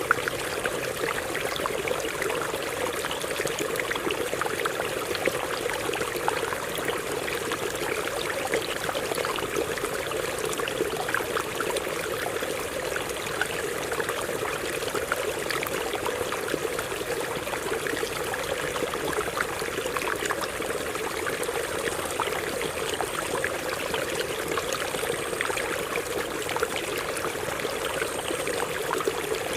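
Water running over rocks in a stream: a steady rushing with fine trickling and splashing.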